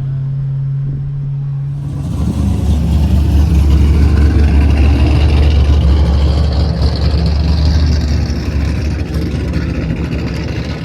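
Car engine at a steady low hum, then a loud, deep exhaust rumble that comes in suddenly about two seconds in and eases off over the last few seconds.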